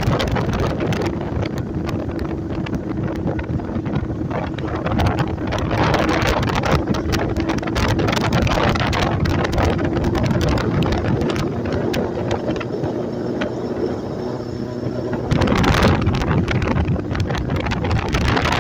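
Motorcycle riding along with its engine holding a steady note under heavy wind buffeting on the microphone. The wind gets louder for the last few seconds.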